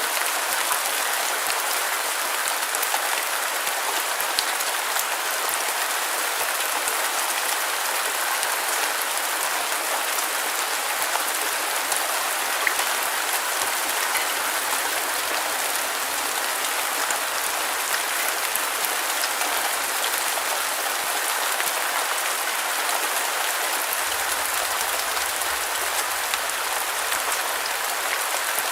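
Steady rain falling on a surface, a dense even hiss with fine scattered drop ticks and no change in intensity.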